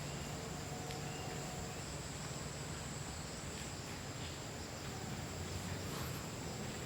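Insects in a steady, unbroken high-pitched drone, with a few faint ticks.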